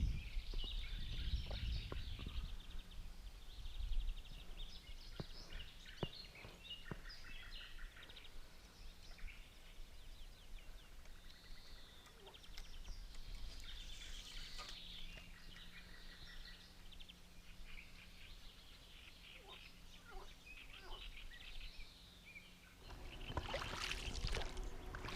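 Quiet outdoor ambience on a pond: small birds chirping and singing, a few sharp knocks, and a faint steady low hum. A broad, swelling noise, like moving water, rises near the end.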